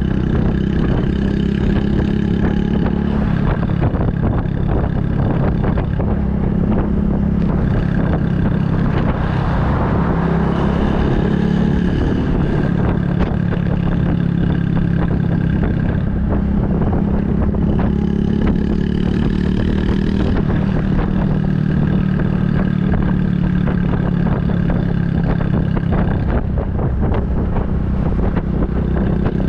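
Honda Super Cub 110's single-cylinder four-stroke engine through an aftermarket Kitaco mini Cabton muffler, running steadily while riding, its pitch shifting a little now and then. Wind hisses on the microphone about ten seconds in.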